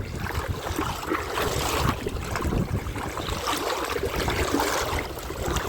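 River water sloshing and splashing around the legs of a person wading through it, a continuous uneven rushing.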